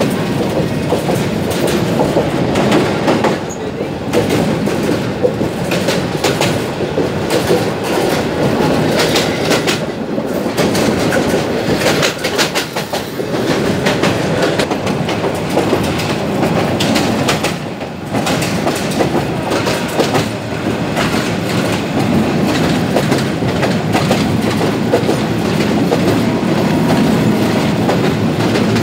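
Passenger train running at speed, heard from a window of the coach: steady rolling noise with irregular clicking and clacking of the wheels over the rails.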